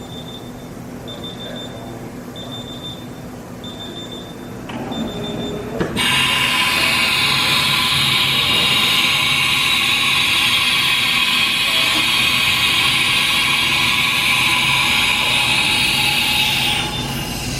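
2007 Haas TM-2 CNC toolroom mill running: a string of short high beeps at first, then the machine starts about five seconds in and runs loud and steady for about eleven seconds before dropping off near the end.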